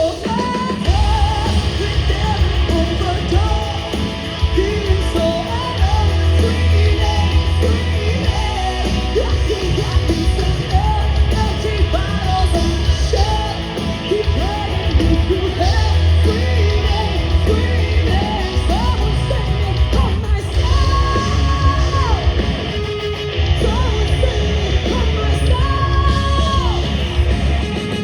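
Loud live hard-rock music: heavy drums and bass under yelled and sung vocals, with a few long held notes in the later part.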